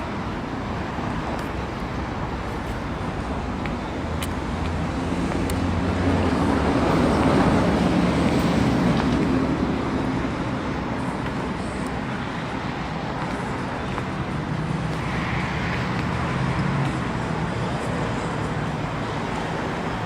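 A motor vehicle engine running steadily, growing louder for a few seconds around the middle and then easing off again.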